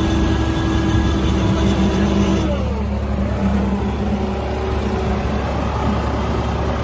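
Tractor diesel engines of a John Deere 5075E and a Swaraj, running hard under load in a tug-of-war pull. About two and a half seconds in the engine note drops and the higher part of the sound falls away.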